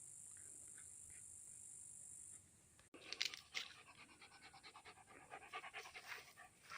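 A steady, high insect buzz, which stops about two and a half seconds in; then, after a short break, a dog panting quickly and rhythmically.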